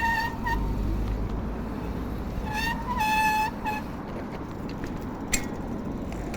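A vehicle horn sounding in short steady blasts: a brief honk at the start and a longer, broken honk about two and a half seconds in, over a steady low traffic rumble. A single sharp click comes near the end.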